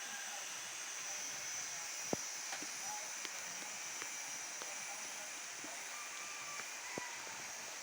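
Steady rain falling, an even hiss with scattered individual drops striking close by, the sharpest about two seconds in and again near seven seconds.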